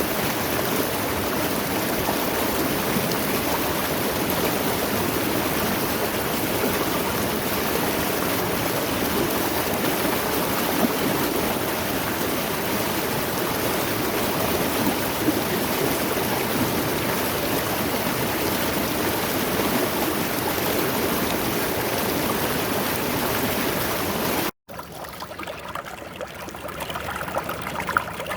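Mountain stream rushing over rocks, a steady full splashing. About 24 seconds in it cuts off abruptly to a quieter, trickling stretch of stream.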